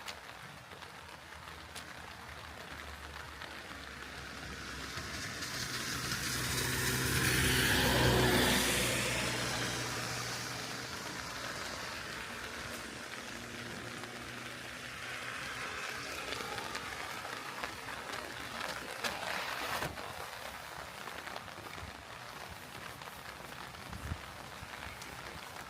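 A car passing on a wet road: tyre hiss and engine hum build up over a few seconds, peak, then fade away, with a fainter swell later. Steady rain patter underneath.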